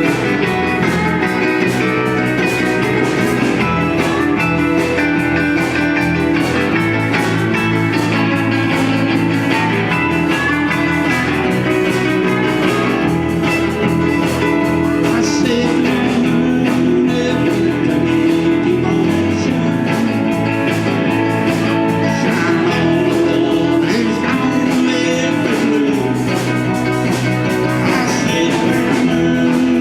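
A band playing guitar-led music, with a bass line that changes note every few seconds.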